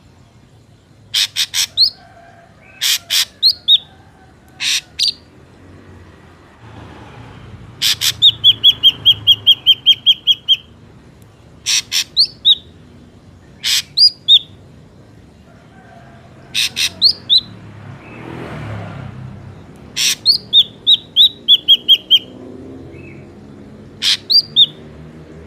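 Ashy drongo calling: groups of loud, sharp notes that drop in pitch, and in the middle a fast run of about a dozen rapid notes.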